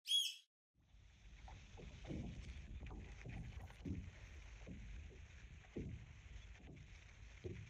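A short chime right at the start, then strong wind rumbling on the microphone and small waves of a lake lapping and slapping at the shore about once a second.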